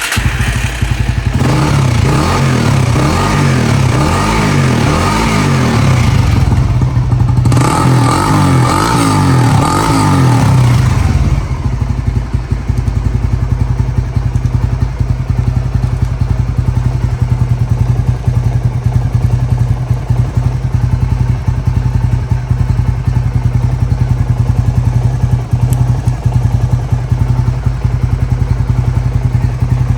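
Honda GB250 Clubman's single-cylinder four-stroke engine starting up, its revs rising and falling repeatedly for about eleven seconds, then settling into a steady idle.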